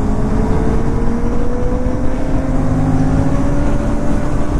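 Several sport motorcycles running on a highway, including four-cylinder superbikes with full-system exhausts. Their engines give a steady tone that slowly rises in pitch under heavy wind rush.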